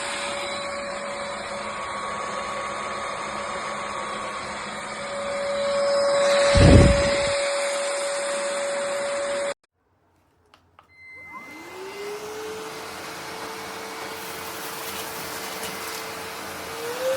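Vexilar V9PRO cordless stick vacuum running with a steady whine. About six and a half seconds in there is a loud low thump. A few seconds later the sound cuts out abruptly. After a couple of clicks the motor spins back up with a rising whine that settles to a steady pitch, then steps up slightly near the end.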